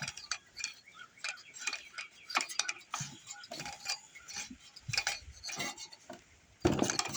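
Irregular light metallic clicks and clinks from hand work on the exposed parts of a small vintage Briggs & Stratton engine, with a louder clatter near the end.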